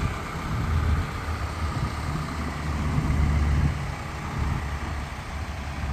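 Low, steady rumble of a Hino S5's 5.2 L four-cylinder turbodiesel engine idling, easing off a little after a few seconds.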